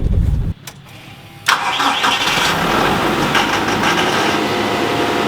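The TYM T130 tractor's diesel engine starts on its push-button starter about a second and a half in, after a brief click, and then runs steadily.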